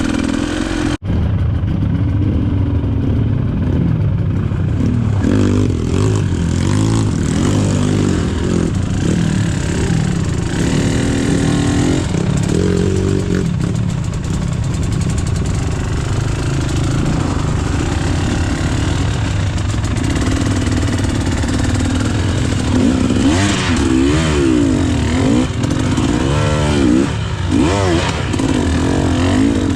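Dirt-bike two-stroke engines running with the throttle blipped up and down, the nearest being the KTM EXC 300's; the revving comes in quick rising-and-falling sweeps, thickest in the last few seconds.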